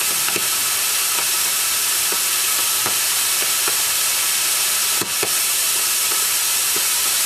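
Homemade potassium nitrate and sugar rocket-candy motor burning in a ground test: a loud, steady hiss with scattered crackles. It cuts off suddenly at the end as the burn finishes.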